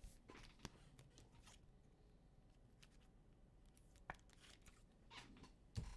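Near silence with a few faint clicks and short rustles of trading cards being handled and slid through the hands.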